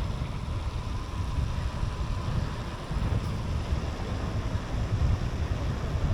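Wind buffeting the microphone of a moving bicycle, an uneven low rumble with a steady hiss above it.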